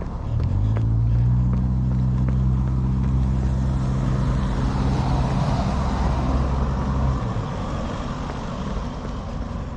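A motor vehicle's engine running at a steady low pitch, which stops suddenly about seven seconds in, over an outdoor rushing noise.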